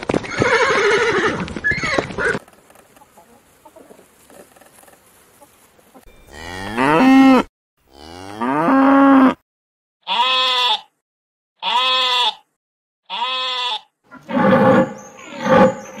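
Cattle mooing: two long loud calls that rise in pitch, then three shorter calls. Another animal's call comes at the start, and deeper, pulsed calls from the deer herd begin near the end.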